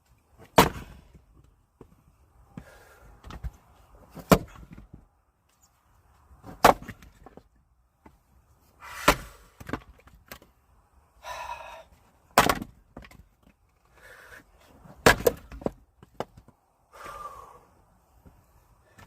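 Axe chopping firewood: about six sharp strikes, one every two to three seconds, with softer knocks and rustles of the wood between them.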